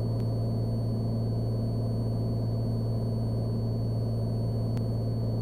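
Cessna Skylane's single piston engine and propeller droning steadily in flight, heard inside the cabin as an even low hum.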